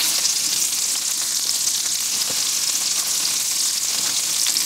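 Breaded canned sardines frying in hot bacon grease in an enameled cast iron pan set just under high: a steady sizzle with a few small crackles.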